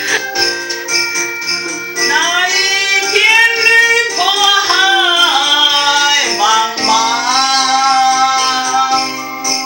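A woman singing long, wavering held notes over instrumental accompaniment with jingling percussion; the voice comes in about two seconds in after a few seconds of instruments alone.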